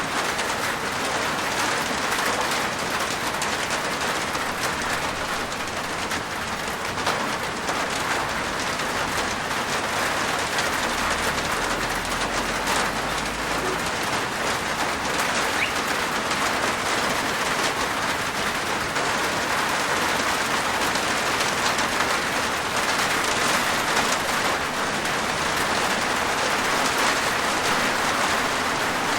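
Steady rain falling on a rooftop, a dense even patter of drops.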